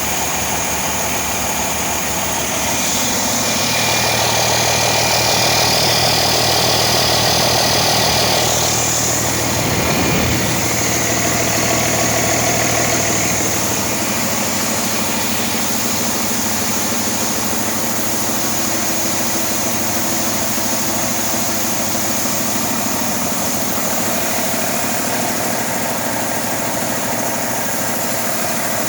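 A 2000 Cummins ISB 5.9-litre inline-six diesel engine running steadily at idle on a test run. It runs a little louder for about five seconds from around four seconds in, then settles back to a steady idle.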